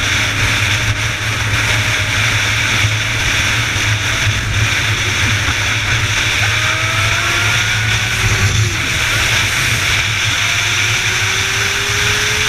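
Steady noise of a motor vehicle travelling on the road, a constant low hum under a hiss, with faint engine notes rising slowly in pitch as it speeds up.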